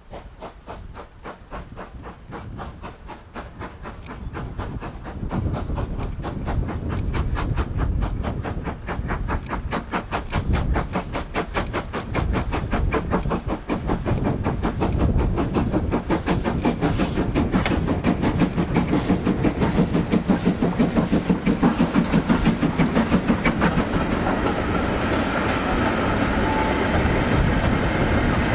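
Steam locomotive working hard, a rapid, even beat of exhaust chuffs that grows steadily louder as it approaches, over a low rumble.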